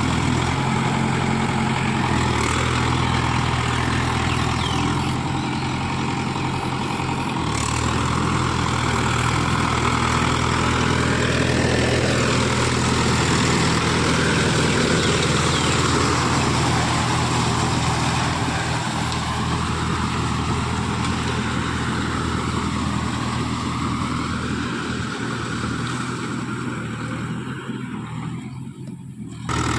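Mahindra Yuvo Tech Plus 575 DI tractor's diesel engine running steadily under load while working a rotavator, with a note that wavers up and down. It drops in level briefly near the end, then changes abruptly.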